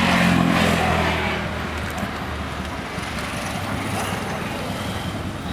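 Road traffic noise: a motor vehicle's engine hum is loudest at the start and fades over about a second and a half, then steady road noise continues.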